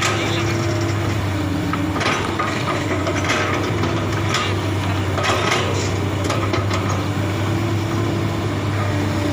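Komatsu PC200 hydraulic excavator's diesel engine running steadily, with irregular bursts of metal clanking and squealing from the machine's steel parts every second or so.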